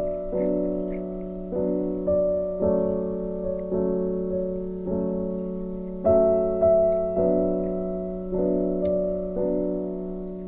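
Slow piano music: notes and chords struck about once a second and left to ring out.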